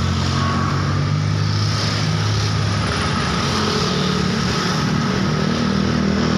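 Road traffic: engines of motor vehicles passing, running steadily over a constant hiss of road noise, with the engine note changing about halfway through.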